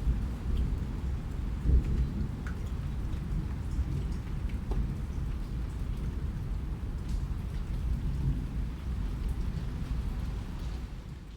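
Steady rain with a heavy low rumble under it and scattered ticks of individual drops. It fades out just before the end.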